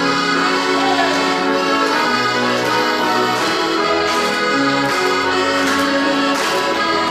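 Accordion playing an instrumental interlude of a Russian folk-style song, sustained chords over a moving bass line, with light percussive strikes from about two and a half seconds in.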